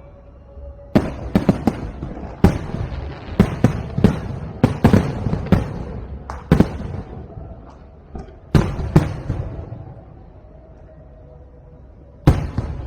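Aerial fireworks shells bursting in a quick, irregular series of loud bangs with rumbling tails, then a pause and one more bang near the end.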